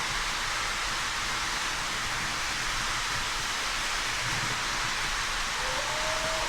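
O-gauge model steam locomotive's sound system giving a steady steam hiss. About five and a half seconds in, a two-tone steam whistle slides up and holds.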